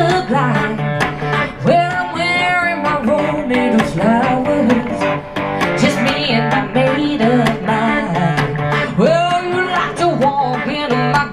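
Guitar playing an instrumental blues-rock intro, its notes bending and gliding in pitch over a steady low held note.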